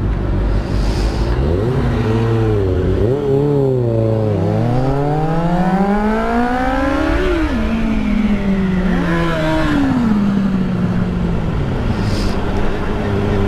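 Motorcycle engine revving and accelerating, its pitch climbing and dropping several times as it shifts, with one long climb then a sharp drop about halfway through, under a steady low rumble of wind and road noise. Near the end the engine settles to a steady pitch.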